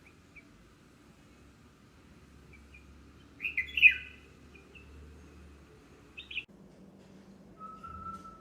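Red-whiskered bulbuls calling at the nest: a few faint chirps, then a loud cluster of quick falling calls about halfway through, and a couple of short calls after. Near the end a steady whistle-like tone starts.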